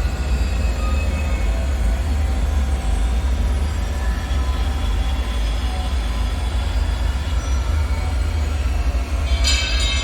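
Dark bunker ambience: a steady deep rumble with faint, drifting metallic tones above it, and a brief high metallic screech near the end.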